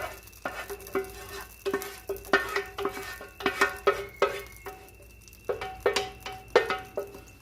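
A metal utensil knocking and scraping against a metal pot or pan in irregular strokes, each knock ringing briefly, with a lull near the middle.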